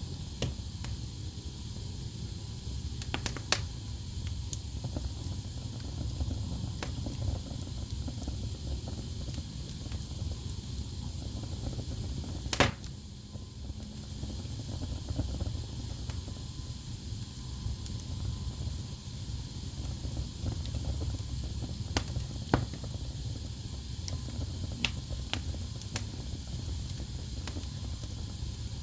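Wood fire burning in a fireplace: a steady low rumble of flame with scattered crackles and sharp pops, the loudest pop about twelve seconds in.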